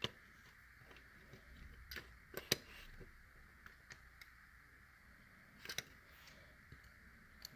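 A few light clicks and taps over a faint steady hiss, with the sharpest click about two and a half seconds in and a small cluster near six seconds; handling noise from the diecast cars being shown.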